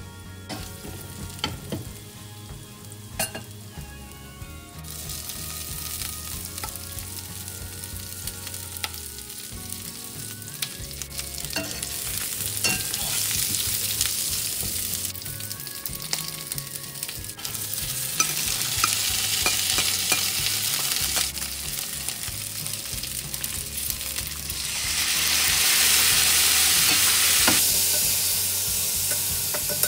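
Stir-fry of dried red chilies, peppers, chicken and peanuts sizzling in hot oil in a stainless steel pan, stirred with a slotted metal spatula that scrapes and clicks against the pan. The sizzling grows louder in several steps and is loudest near the end.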